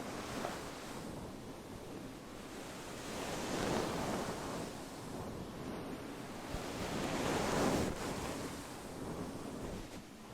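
Slow strokes across a fur-covered microphone windscreen, making a soft, surf-like rustle that swells and fades, loudest in two long sweeps in the middle and later part.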